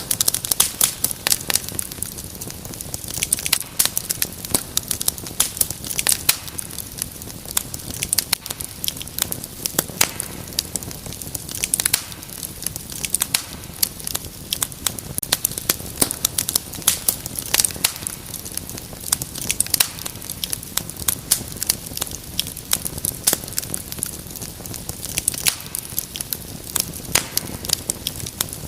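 Wood fire crackling in a fireplace: dense, irregular sharp pops and snaps over a low steady hiss of burning.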